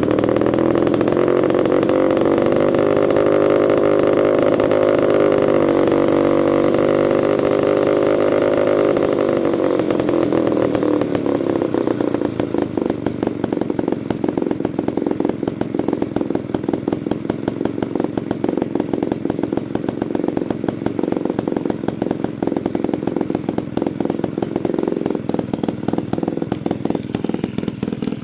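Danarm MKI two-man chainsaw's two-stroke engine running fast and steady. About ten seconds in it drops to a slower, uneven idle with each firing stroke audible.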